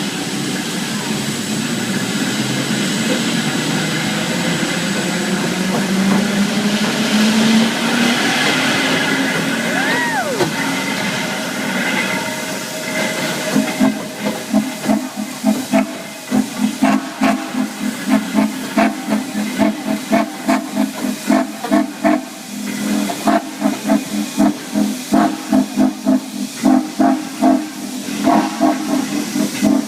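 Steam locomotive: a steady hiss of steam builds over the first dozen seconds, then about halfway through gives way to an even run of exhaust chuffs as the engine works.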